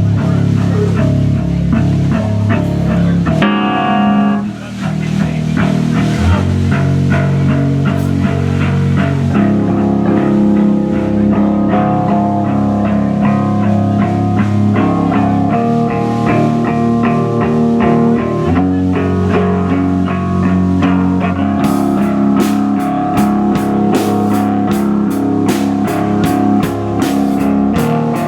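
A rock band playing live: electric guitar chords over bass, with drums. A drummer's regular hits come in strongly about three-quarters of the way through.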